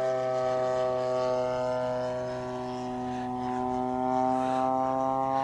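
A 33cc gas engine on a model airplane in flight, heard from the ground as a steady, even drone. It fades a little in the middle and grows louder again as the plane comes back around.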